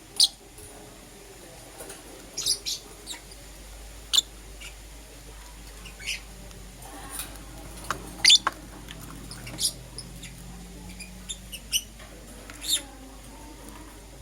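Lovebirds chirping: short, sharp, high-pitched calls, about a dozen, coming at irregular intervals.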